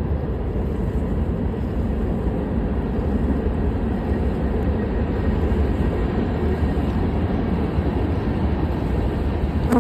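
Steady low rumbling noise of wind buffeting the microphone, with a single sharp click at the very end.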